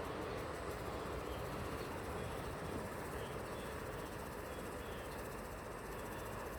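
Steady city traffic ambience: a continuous wash of vehicle and tyre noise over a low rumble, with faint short high chirps scattered through it.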